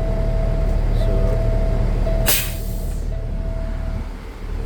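Peterbilt truck's diesel engine idling while a dash warning tone sounds in on-off pulses. About two seconds in comes a sharp burst of air hiss from the air-brake valve.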